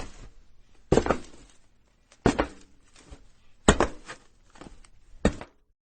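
Footsteps of a person walking on a roof: four heavy steps about one and a half seconds apart, each a quick double knock, with fainter knocks between.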